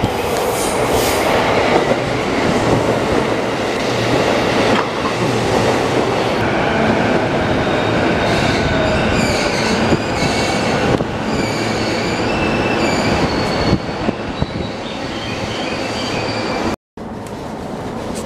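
JR Keihin-Tohoku Line E233-series electric train pulling into the platform, wheels clattering, with thin high squeals as it slows. Near the end the sound cuts to the steadier running noise inside a moving car.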